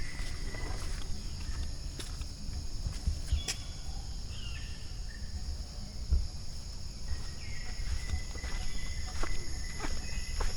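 Jungle insects droning steadily at a high pitch, with a thinner steady tone near the start that returns about two-thirds of the way through. Scattered light footsteps and clicks sound over a low rumble.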